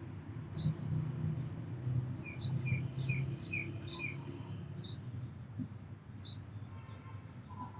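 Sparrows and other small birds chirping: short high chirps about once a second, with a quick run of five lower notes between about two and four seconds in. A steady low rumble runs underneath.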